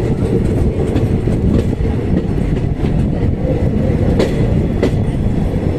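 Steady rumble and wheel noise of a moving passenger train, heard from aboard, with a few sharp clicks of the wheels crossing rail joints, two of them about four and five seconds in.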